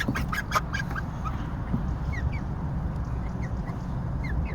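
Young parrot beak aseel chickens peeping: short, high, downward-gliding chirps scattered throughout, after a rapid flurry of scratchy beats in the first second. A steady low rumble runs underneath.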